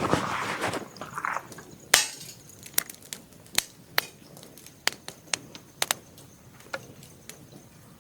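Wood snapping in sharp, irregular cracks: one loud crack about two seconds in, then a scatter of smaller snaps, after a brief rustle at the start.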